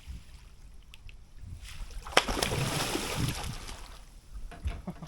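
Water splashing for about a second and a half as a hooked catfish thrashes at the surface beside the boat while it is being landed, starting with a sharp knock about two seconds in; a few lighter knocks follow.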